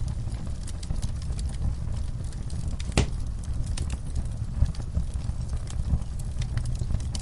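Wood fire burning in a fireplace: a steady low rumble of flame with scattered small crackles and one sharp pop about three seconds in.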